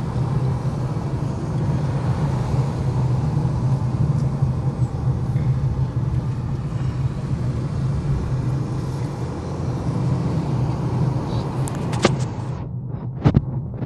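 Car driving on a road: a steady rumble of engine and tyre noise. Near the end there are a few sharp clicks and the sound thins out abruptly.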